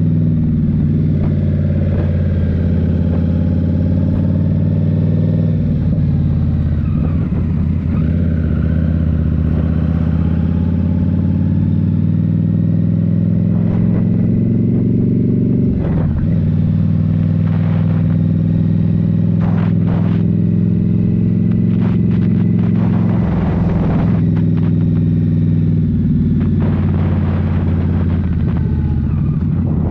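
Indian Scout Rogue's 69 cubic-inch V-twin engine running at steady riding revs through a Rinehart slip-on exhaust, its pitch easing up and down gently with the throttle. A few short rushes of noise come in the second half.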